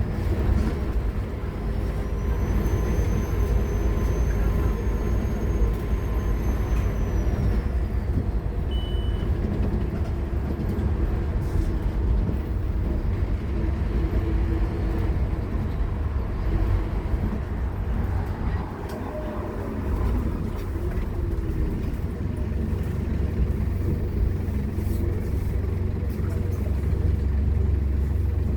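Scania K230UB bus's five-cylinder diesel engine running hard, a steady deep drone throughout. A thin high whine comes in about two seconds in and fades near eight seconds.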